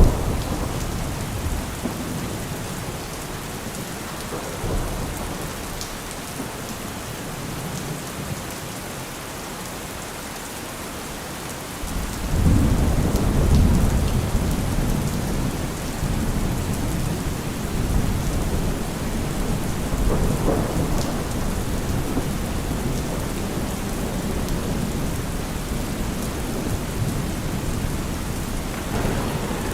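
Heavy rain falling steadily as an even hiss, with a deep low rumble swelling in about twelve seconds in and carrying on under it.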